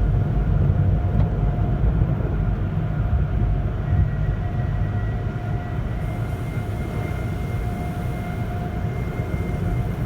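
Automatic car wash tunnel machinery heard from inside the car: a steady low rumble with a faint steady whine, and a second thin higher whine joining about four seconds in.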